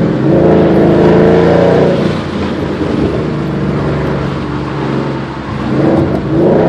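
2011 Ford Mustang GT's 5.0-litre V8 through an aftermarket Roush exhaust, accelerating hard with a rising note for about two seconds. It then eases to a lower, steadier drone and picks up again near the end.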